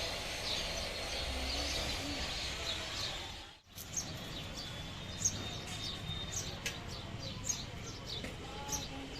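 Several birds chirping with short, high, falling notes, and a low cooing call about a second and a half in. The sound cuts out for a moment about three and a half seconds in, then the chirping carries on.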